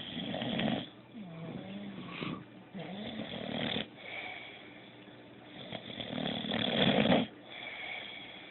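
Sleeping dog snoring, breath after breath every one to two seconds, with a brief wavering whistle in one breath near the start and the loudest snore about six to seven seconds in.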